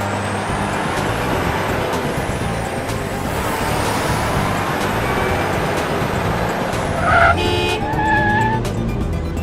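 Garbage truck engine and traffic sound effect running steadily, with a short horn honk about seven seconds in.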